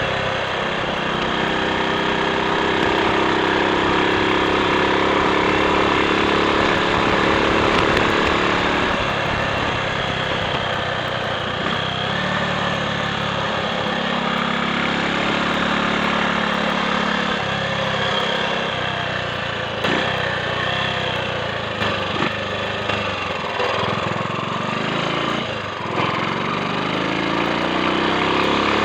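Triumph Sports Cub's single-cylinder four-stroke engine running on the road, its pitch shifting with throttle and gear changes and rising again near the end.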